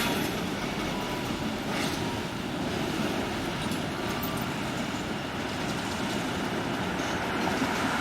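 Freight train behind an electric steeple cab locomotive rolling along, a steady rumble of wheels on rail with a short high screech about two seconds in.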